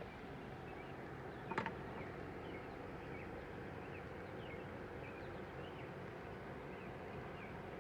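Garden ambience after rain: a steady background hiss with faint, short chirps repeating every half second or so, and one sharper, louder call about one and a half seconds in.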